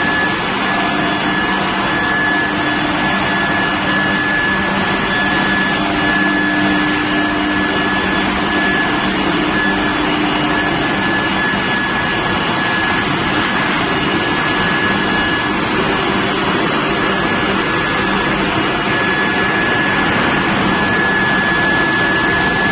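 Square steel induction heat treatment furnace line running: a loud, steady noise with a constant high whine over a lower hum, unchanging throughout.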